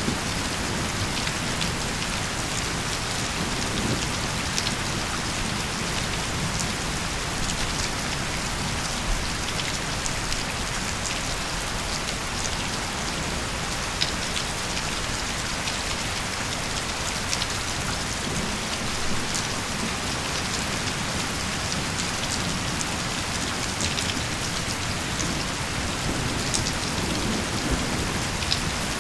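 Steady heavy rain falling, a dense even hiss with scattered sharp ticks of individual drops hitting a surface.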